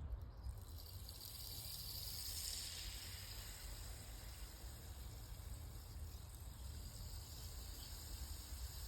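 Rainstick tipped over, its beads trickling down inside as a steady, high hiss that starts just after the beginning and swells for a couple of seconds before settling. A low rumble runs underneath.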